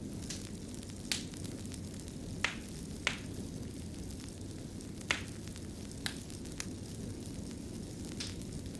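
Wood fire burning in a fireplace: a steady low rumble with sharp crackles and pops at irregular intervals, about seven in these few seconds.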